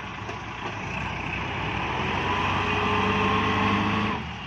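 Farm tractor's diesel engine revving up under heavy load, getting louder over a few seconds and then easing off sharply near the end, as it strains to drive through deep mud.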